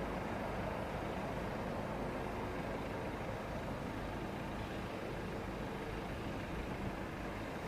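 Steady, fairly quiet vehicle rumble with a faint low hum, no sudden events.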